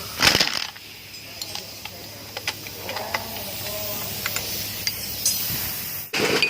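Workshop sounds during a transmission teardown: a short hiss about a quarter second in, then scattered light clicks and taps of tools on metal parts. Just before the end, a sudden change to an engine running with a rapid, even pulse.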